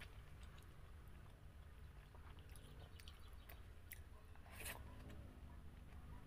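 Faint chewing and wet mouth clicks from a person eating rice and side dishes with her hands, over a low steady hum. The sharpest click comes a little before the end.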